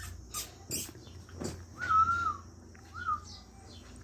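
Pet parrot calling: a couple of short harsh rasps, then a clear whistled note that rises, holds and falls, followed by a shorter second whistle about a second later.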